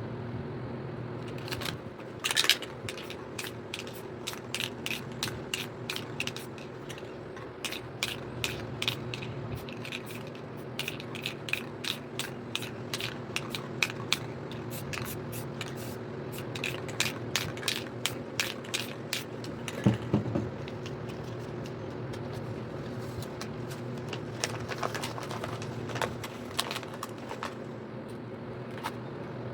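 A run of irregular sharp clicks and scrapes, a few a second, that thins out about two-thirds of the way through, over a steady low hum.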